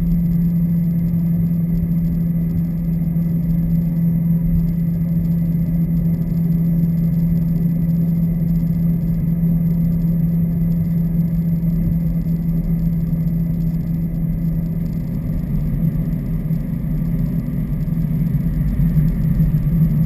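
Subaru WRX's turbocharged flat-four running steadily through a muffler-deleted axleback exhaust, a constant low drone that wavers and gets a little louder near the end.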